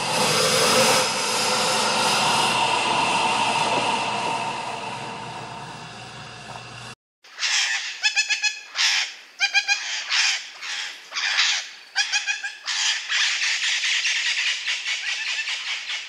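Birds calling: a dense chorus of many overlapping calls for about seven seconds, then, after an abrupt cut, short pitched squawks repeated in quick runs.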